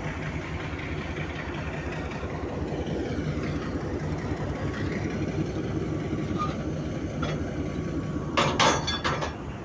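HBU-20 diesel-electric locomotive running steadily at idle with a low hum. About eight and a half seconds in come two short, loud noisy bursts.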